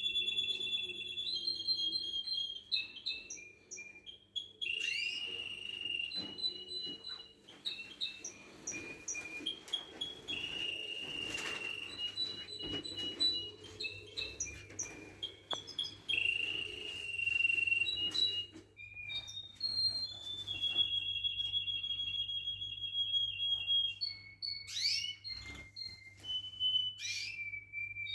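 Domestic canary singing a long continuous song of rolling trills and held whistled notes, with quick steep up-and-down sweeps near the end.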